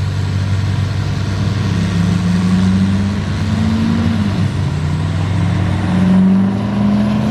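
Two diesel pickup trucks making a drag strip pass: their engines climb in pitch under full throttle, drop at a gear change about four seconds in, then climb again.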